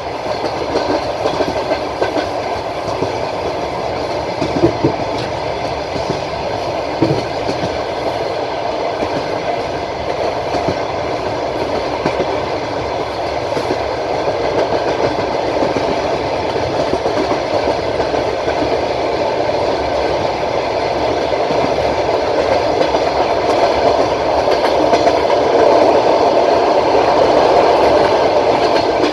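Passenger train carriage running along the track, heard from aboard: a steady rumble with the wheels clacking over the rail joints. A couple of sharper knocks come about 5 and 7 seconds in, and the running noise grows louder toward the end.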